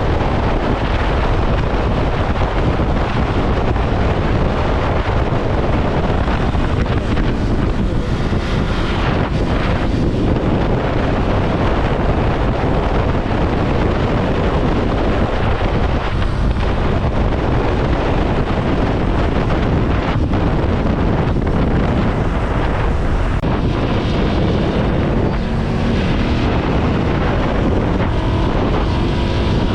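Ducati Scrambler Sixty2's air-cooled 399 cc L-twin running on the road, with heavy wind rushing over the microphone at riding speed.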